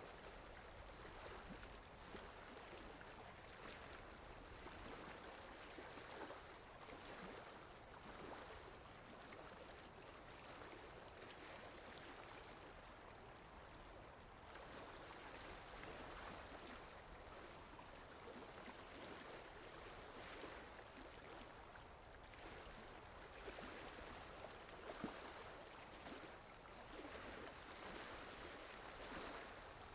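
Faint, steady rain: a dense patter of many small drops that swells and eases gently, with a louder single drop hit about 25 seconds in.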